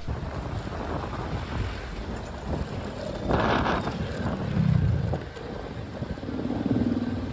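A small motor scooter running along a road, with wind buffeting the microphone and a rumble of road noise; the sound swells louder about three and a half seconds in.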